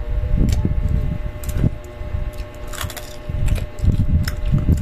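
Chewing crispy fried fish close to the microphone: irregular crunches and sharp clicks over an uneven low rumble.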